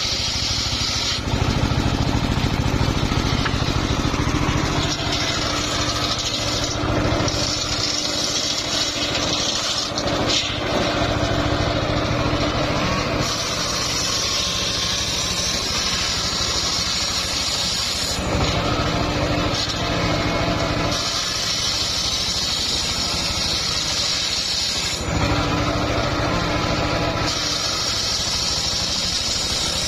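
Home-built engine-driven circular sawmill running continuously while sawing an old mahogany log, a fairly hard wood. Its sound changes in stretches of a few seconds as the load on the blade shifts.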